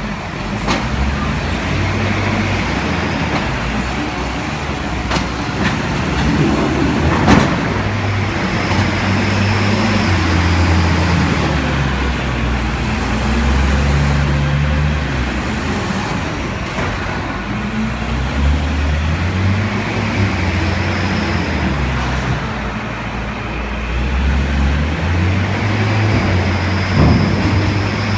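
Forklift engine running and revving up and down as it works. A few sharp knocks sound over it, the loudest about seven seconds in.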